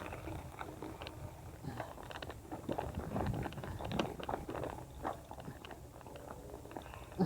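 Bicycle tyres rolling over a dirt trail, with irregular crunching and crackling from the ground under the wheels.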